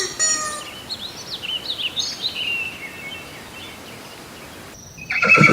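Small birds chirping in short rising and falling calls over a steady outdoor hiss. About five seconds in, a horse starts a loud neigh, the loudest sound here.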